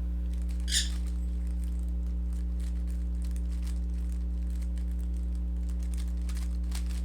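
A Rubik's cube being turned by hand, its plastic layers giving faint, scattered clicks and rattles, with one slightly louder snap under a second in. A steady low electrical hum lies underneath and is louder than the clicks.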